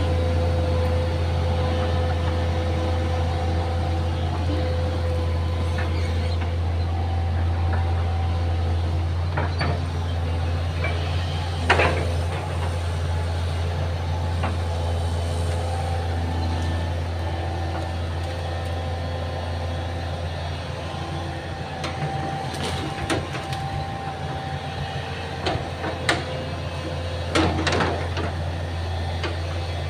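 Excavator's diesel engine running steadily, with a steady whine over it and a few sharp knocks: one about twelve seconds in and a cluster near the end.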